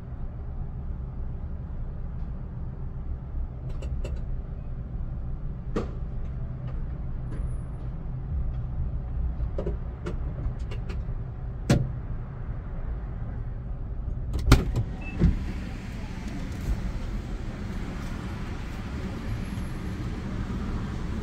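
Car engine idling steadily, with a few sharp clicks and knocks scattered over it; the loudest come about two thirds of the way through.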